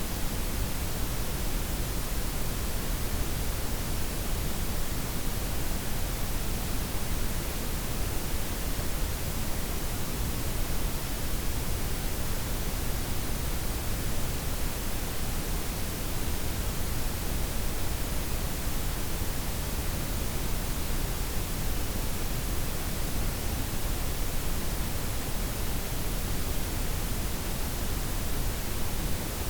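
Synthetic blended white, pink and brown noise: a steady, even hiss with a deep low rumble, unchanging throughout.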